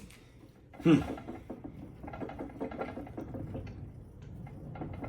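A man's voice: a sudden loud vocal sound with a falling pitch about a second in, then softer, low mumbled vocal sounds.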